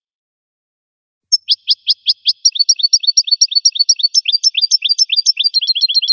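Goldfinch singing: about a second in, a run of rapid down-slurred high notes begins at about five a second and quickens into a fast, even trill.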